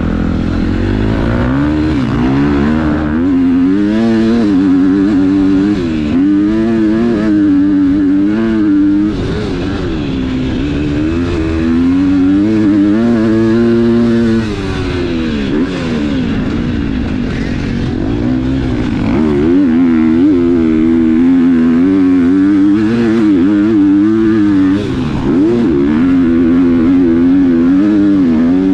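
KTM 250 four-stroke motocross bike engine revving hard under riding load, its pitch climbing and falling over and over as the throttle is worked through the gears. It briefly drops off throttle about nine, fourteen and twenty-five seconds in.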